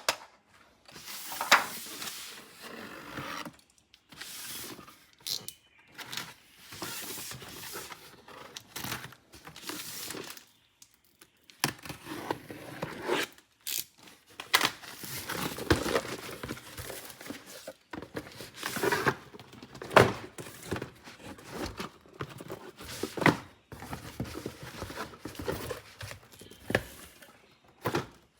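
Toy packaging being handled and opened: irregular crinkling, rustling and tearing, with scattered sharp clicks and knocks of plastic toy parts.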